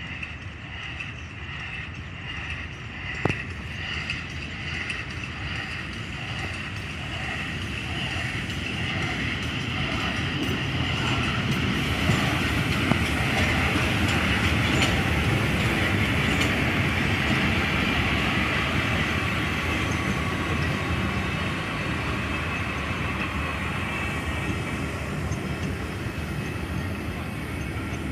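Early-1900s FS 640 steam locomotive and its train of carriages passing. Regular beats, about one and a half a second, are heard at first. They merge into a steady rushing rumble that grows loudest midway and then slowly fades.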